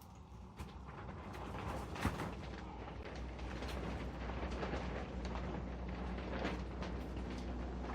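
Wind rumbling and buffeting on the microphone, with scattered crackling and scraping from the Bird's Nest spruce's root mass and soil being picked apart, and one sharp knock about two seconds in.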